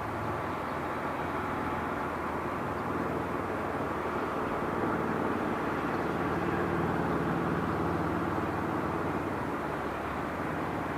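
Jet airliner engines running, a steady rushing drone that swells a little about halfway through and then eases.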